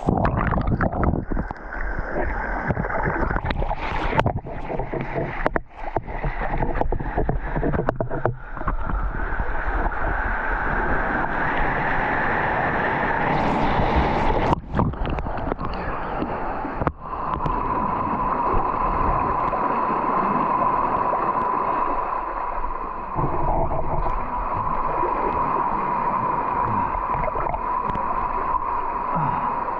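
Water sloshing and gurgling around a kayak, with knocks and handling noise in the first half. About halfway through it settles into a steady rush with a constant whine.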